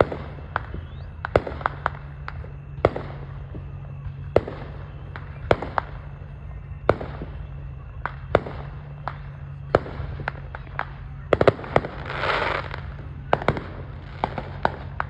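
Fireworks going off in an uneven string of sharp bangs, one to three a second, with a longer hissing burst about twelve seconds in, over a steady low hum.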